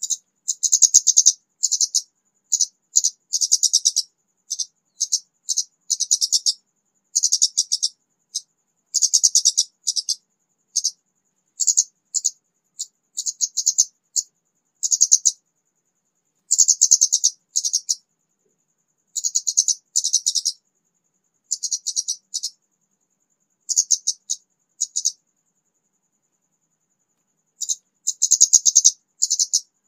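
A young wild-caught kemade songbird starting to sing: short, high-pitched, raspy chattering phrases repeated with brief pauses, and a longer pause near the end.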